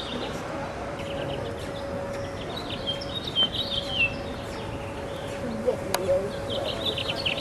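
Small birds chirping in quick twittering runs, about three seconds in and again near the end, over a steady faint hum. A single sharp click about six seconds in.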